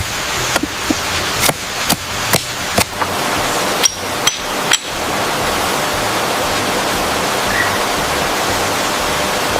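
A series of sharp knocks, about eight in the first five seconds, spaced roughly half a second apart over a steady hiss; after that only the hiss goes on.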